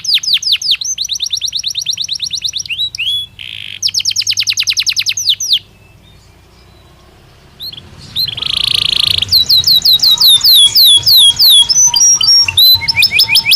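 Belgian canary singing: rapid trills of repeated high notes, a pause of about two seconds near the middle, then a buzzy note and a run of slower falling whistled notes.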